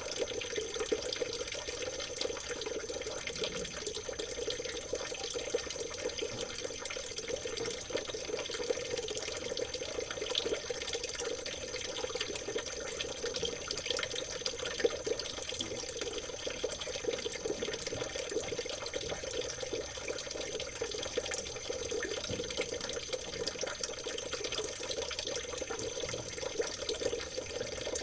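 Small stream of water trickling and babbling, a steady splashing flow full of small droplet ticks.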